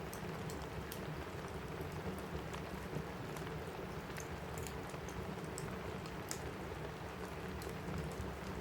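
Steady rain on a roof mixed with a crackling wood fire: an even hiss with scattered sharp, irregular crackles.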